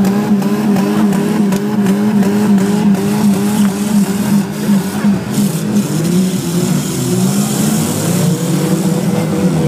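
Several demolition-derby car engines revving hard together, their pitch rising and falling continuously as the cars push and spin on packed snow.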